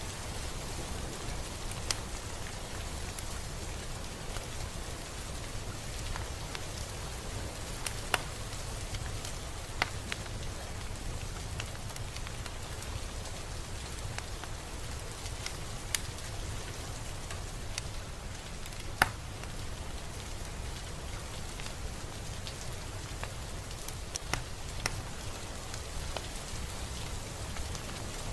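Steady rain falling, an even hiss with about ten louder single drops ticking sharply at irregular moments.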